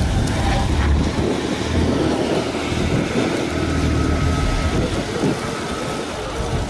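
Car engine and exhaust running steadily, with wind buffeting the microphone.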